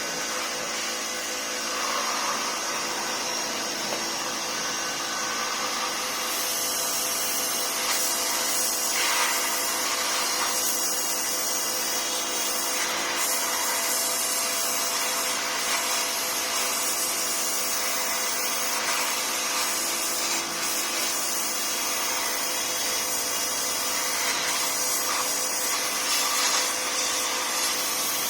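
Steady mechanical whir from a running motor, with several constant tones under a high hiss.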